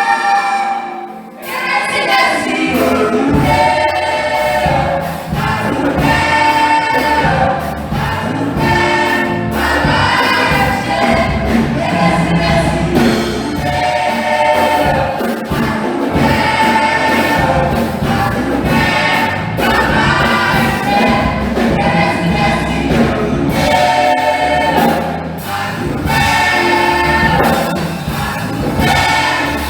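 Church choir singing a gospel-style song with a steady low instrumental backing, starting after a short pause about a second in.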